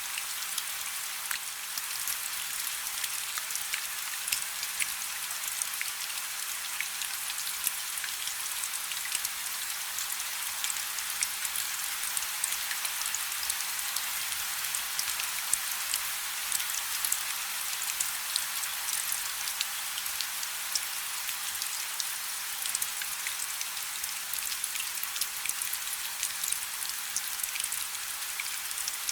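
Steady rain falling on a river's surface: a dense, even hiss of countless small drop ticks, sitting mostly in the high range with little low rumble.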